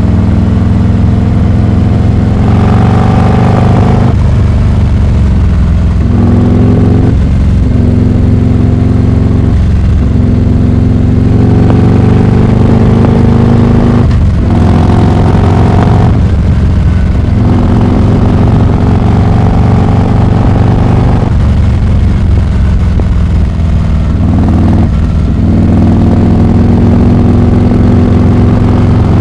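Harley-Davidson Heritage Classic 114's Milwaukee-Eight V-twin through a Rinehart exhaust, ridden under load. The engine note climbs in pitch, then drops sharply at each gear change or throttle lift, about seven times.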